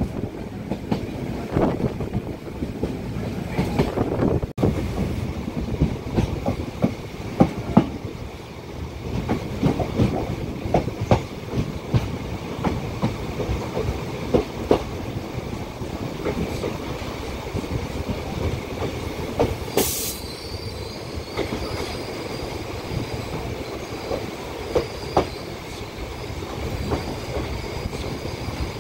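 Passenger train running, heard from an open coach door: steady rumble with the wheels clattering over rail joints. About twenty seconds in there is a brief burst of hiss, and after it a thin high squeal from the wheels on the curve.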